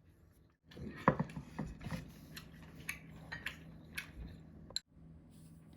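Kitchen utensils clinking and tapping against dishes, a quick irregular run of light knocks over a few seconds, over a faint steady hum.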